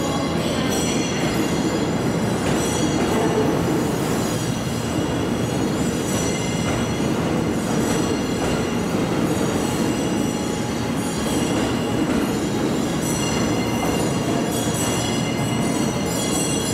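Train Suite Shiki-shima pulling out of the station at low speed, its wheels squealing steadily on the rails.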